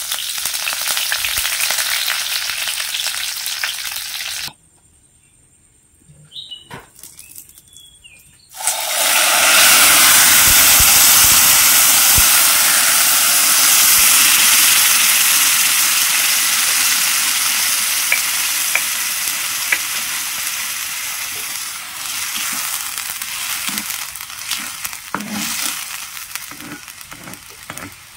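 Curry leaves and green chillies sizzling in hot oil in a cast-iron kadai. After a few seconds' pause, a sudden loud burst of sizzling as ground coconut chutney paste is poured into the hot tempering, slowly dying down, with a spoon stirring the mixture near the end.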